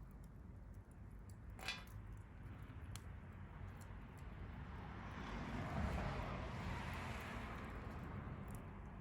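Wood campfire burning, with scattered small crackles and one sharper pop about two seconds in. A broad rushing noise swells up through the middle and fades again near the end.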